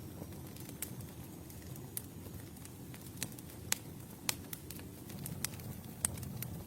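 Campfire burning: a steady low rumble of flames with sharp, irregular crackles and pops from the wood, about six in all. The loudest pops come a little past halfway and near the end.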